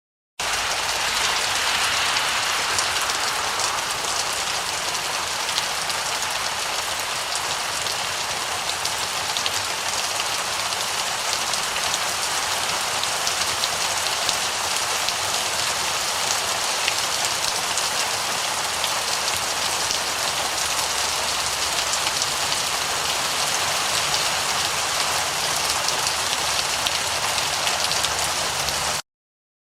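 Heavy rain falling steadily, a dense hiss full of fine pattering drops, starting just after the beginning and cutting off abruptly about a second before the end.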